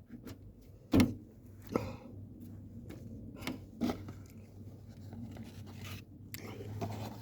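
Handling noise: a few sharp knocks and scrapes, the loudest about a second in, over a steady low hum.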